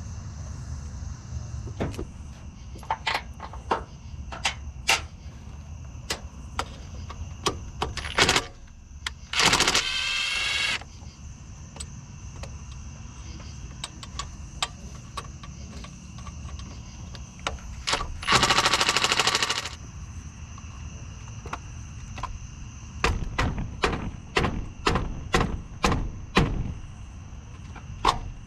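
Hand tools working on a car engine: scattered metallic clicks and knocks, with two runs of rapid clicking, like a ratchet, about ten seconds in and again near the middle, each lasting a second or two.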